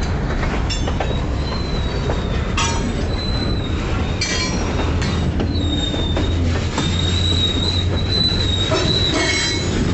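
Diesel freight locomotives rolling slowly by with the engines humming. The wheels give a high, wavering squeal on the rails, strongest in the second half, with a few short clanks.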